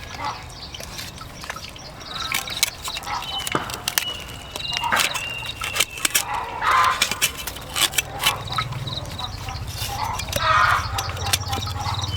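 Scattered sharp knocks and clatter with indistinct voices in the background; a low steady hum comes in about eight seconds in.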